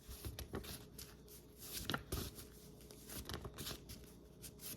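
Faint rustling and clicking of paper or cards being handled, in short irregular bursts.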